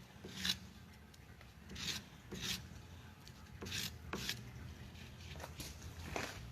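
Hand deburring tool scraping the very inner edge of a freshly machined shift knob's bore, in a series of short strokes that often come in pairs.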